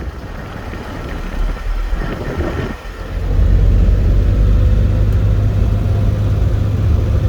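A car driving on the road, engine and road noise. About three seconds in a heavy low rumble comes up and stays loud.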